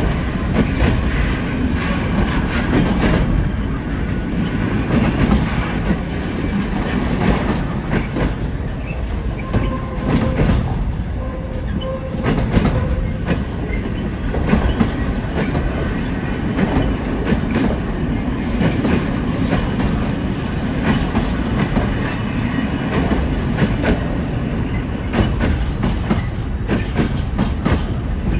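A train rolling through railway points, its wheels clattering over the rail joints and switches in a continuous run of clicks over a steady rumble.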